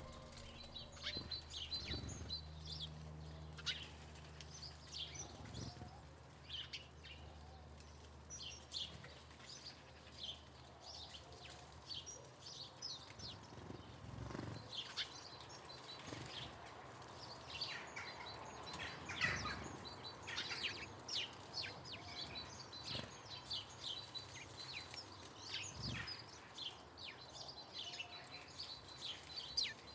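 Small garden birds chirping and calling, many short high chirps coming again and again.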